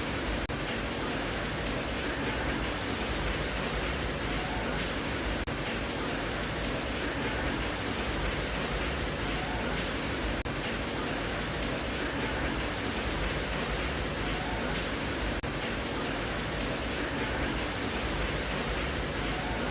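Steady rain, an even hiss that runs on without breaks or changes.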